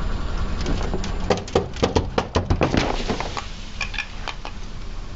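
Something brittle crunching under a car tyre: a quick run of cracks and snaps that thins out, over a low rumble, with two short high squeaks about four seconds in.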